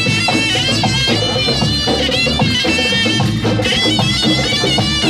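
Tunisian folk music: a reedy wind instrument plays a sustained, wavering melody over a steady pulse of drums.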